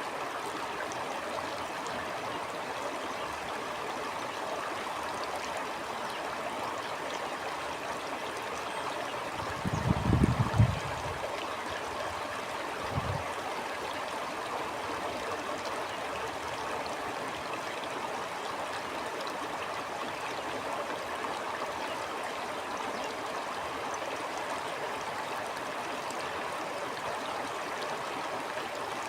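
Stream water flowing and gurgling steadily. A loud, low rumble breaks in about ten seconds in, and a shorter, fainter one follows a few seconds later.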